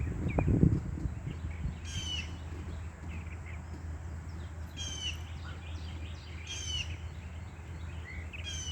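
A bird calling about four times, a few seconds apart, over a steady low hum. A loud bump or rustle close to the microphone comes in the first second.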